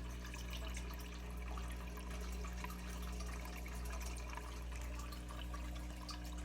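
Aquarium filter water trickling and dripping into a shallow turtle tank, with many small drips over a steady low hum.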